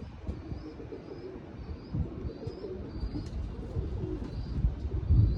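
Domestic pigeons cooing, with short high chirps over them and wind buffeting the microphone, a loud gust near the end.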